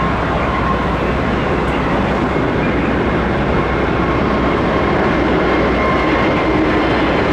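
Airbus A320neo jet engines at take-off power: a loud, steady jet rumble with a faint steady whine over it.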